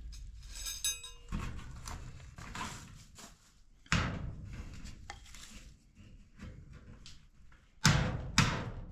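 Hammer blows driving stakes into rocky ground: separate thuds at uneven gaps, with a short metallic ring about a second in and a quick run of heavy strikes near the end.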